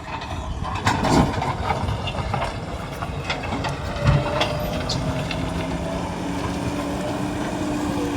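Diesel engine of a JCB 3DX backhoe loader running at work, with scattered metallic clanks and knocks in the first half. About halfway through, a steady engine tone rises a little and then holds.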